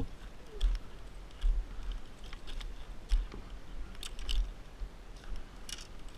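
Scattered short clicks and knocks at irregular intervals, several with a low thud beneath them.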